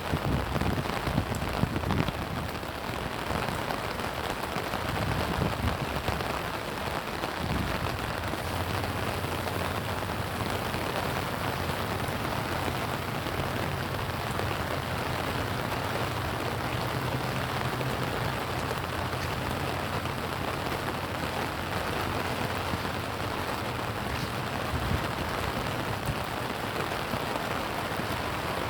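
Steady rain falling and pattering on surfaces. A low rumble is under it for the first few seconds, and a low steady hum joins it from about eight seconds in.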